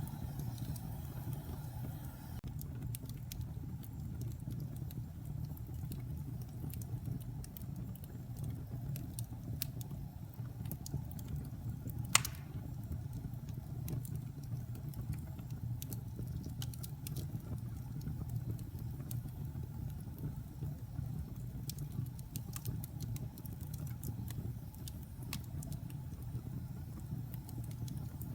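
Wood fire burning in a fireplace: a steady low rumble of flames with scattered small crackles of burning wood, and one sharp, louder pop about twelve seconds in.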